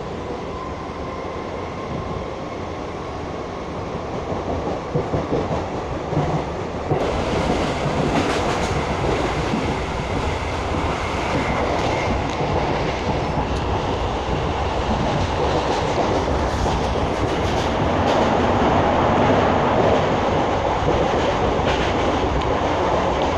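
Kolkata suburban EMU local train running along the track, heard from inside the carriage at an open barred window: a steady rumble of wheels on rails that grows louder about seven seconds in.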